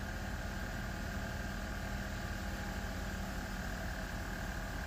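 Engine idling: a steady low rumble with a thin, high-pitched whine over it. A low hum in the sound drops out about three and a half seconds in.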